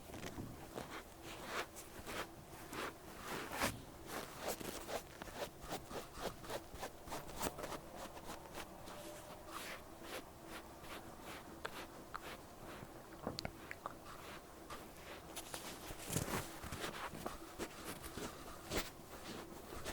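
Cotton pad wiping and rubbing over a microphone's ear: a dense, irregular run of soft crackling scrapes.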